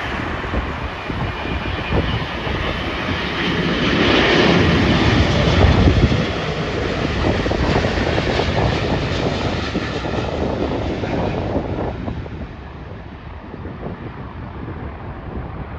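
Jet airliner on approach to land passing close by, its engine noise swelling to a peak about five seconds in and then fading away, with wind buffeting the microphone.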